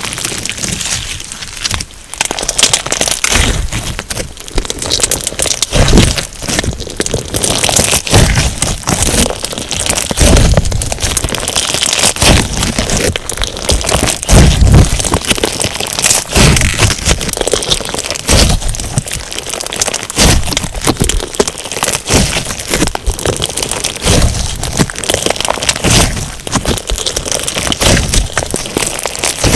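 Crunchy slime packed with sugar beads being squeezed and pressed by hand: dense crackling and popping throughout, with a heavier squish every second or two.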